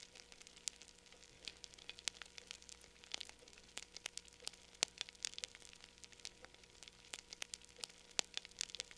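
Wood fire in a fireplace crackling faintly, with irregular small pops and snaps from the burning logs.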